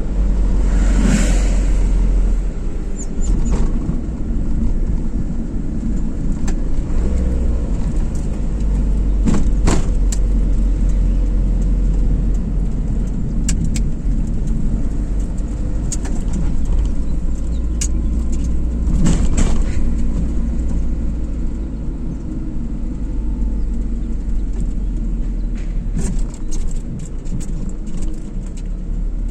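A car driving along a road: steady deep road and engine rumble, with a few brief sharp noises near the start, about ten seconds in and about nineteen seconds in.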